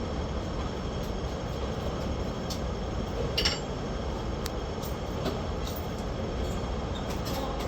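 Hong Kong double-decker tram running on its rails, heard from on board: a steady low rumble with scattered clicks and rattles, and one brief sharp high-pitched sound about three and a half seconds in.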